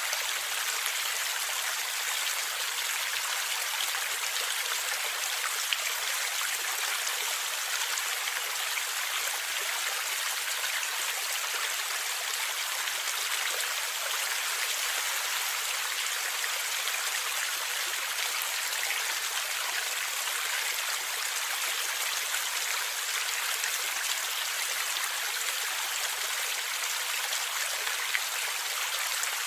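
A stream flowing and gurgling steadily: an even, constant rush of water, mostly high hiss with little low rumble.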